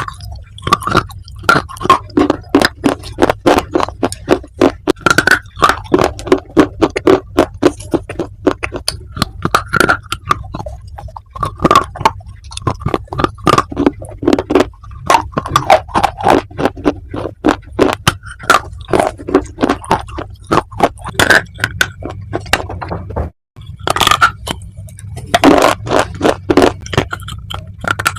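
Baked clay being bitten and chewed close to the microphone: a rapid, continuous run of sharp, brittle crunches, broken by one brief gap about 23 seconds in.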